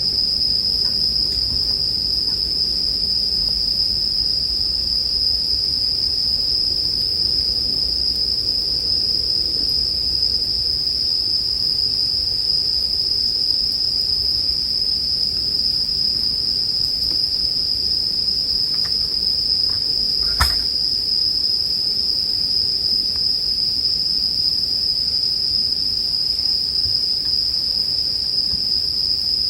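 Bell crickets (suzumushi) singing in a steady, unbroken high chorus, over the faint low hiss of a campfire. A single sharp crackle from the fire comes about two-thirds of the way through.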